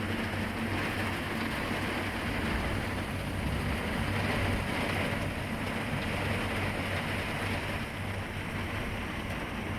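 Articulated dump truck's diesel engine running steadily, a low hum under a broad rushing noise.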